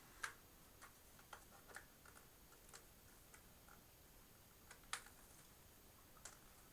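A few faint, scattered clicks and taps of plastic hard-drive caddies being handled and fitted, over near silence.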